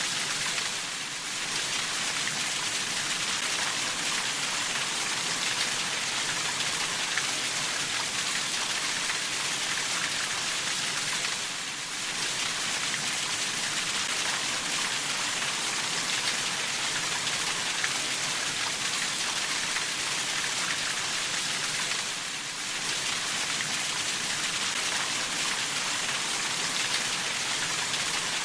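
Steady rainfall, an even hiss of many drops, with a brief dip in level about every ten seconds.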